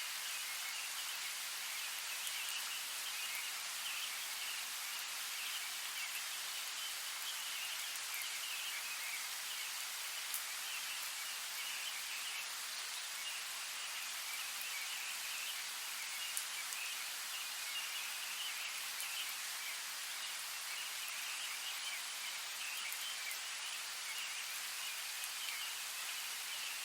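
Light rain falling steadily, a soft even hiss with an occasional sharper drop tick.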